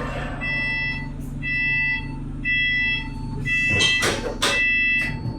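Bus door warning buzzer beeping five times, about once a second, as the doors close, with a hiss and clatter from the pneumatic doors about four seconds in over the steady hum of the idling bus engine.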